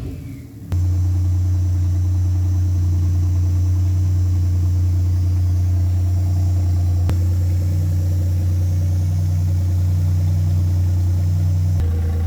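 Car engine idling steadily at an even, unchanging pitch, starting abruptly about a second in.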